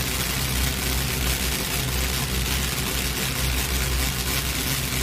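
Top Fuel drag motorcycles' nitromethane engines idling on the starting line: a steady, low, slightly uneven rumble.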